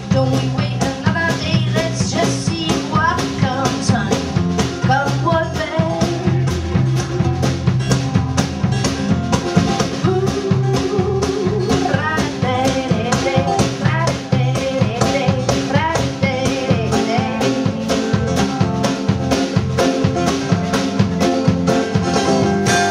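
Live band in an instrumental break: a drum kit keeps a steady beat under guitar playing lines that bend and glide in pitch. Near the end the drums stop and a held chord rings on.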